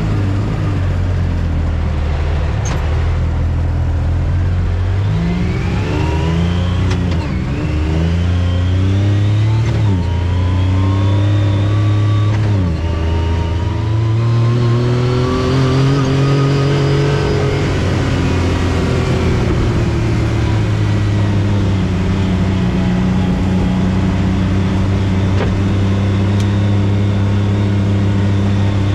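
Off-road vehicle engine running under way, revving up and easing off several times in the first half, then holding a steady engine speed.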